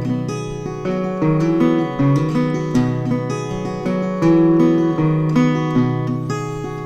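Acoustic guitar playing an instrumental break, strummed and picked chords with a steady pulse and no singing.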